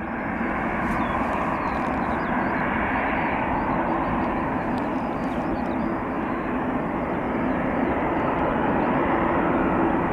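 Jet airliner engines running with a steady rushing noise and a low hum, growing slightly louder near the end.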